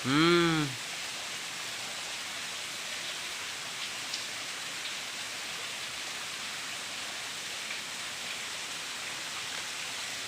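Steady rush of waterfall and stream water. In the first second a man gives one short loud call that rises and falls in pitch.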